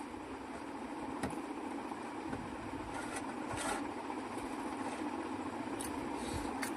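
A steady background hum with a few short crunches and clicks scattered through it, typical of someone chewing and handling food between bites.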